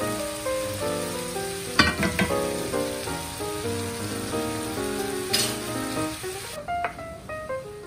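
Minced chicken sizzling in a cast-iron skillet while a wooden spoon stirs it, with a few sharp scrapes of the spoon against the pan about two seconds in and again past the five-second mark. The sizzle stops abruptly near the end, and background music plays throughout.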